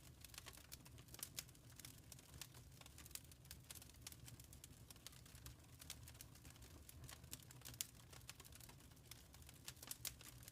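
Wood fire in a fireplace crackling faintly: a steady stream of small, sharp, irregular pops and snaps over a low, steady rumble.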